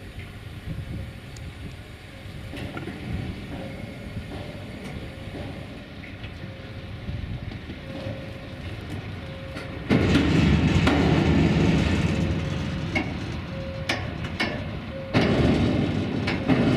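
Freight train of tank wagons rolling past close by, the wheels clicking over rail joints over a steady rolling rumble. The sound steps up sharply louder about ten seconds in.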